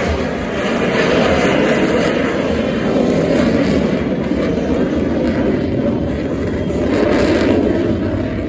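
Aircraft engine noise from an air-show flight: a loud, steady rush that swells slightly about a second in and again near the end.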